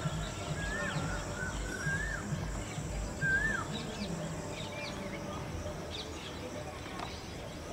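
Birds calling: a few short whistled notes that rise and fall in pitch, most in the first half, then some higher, thinner chirps, over a steady low outdoor rumble.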